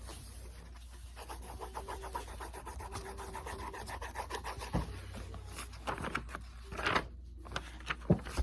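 Pen or pencil scribbling on paper in rapid back-and-forth colouring strokes, with a louder scrape about seven seconds in and a sharp knock near the end.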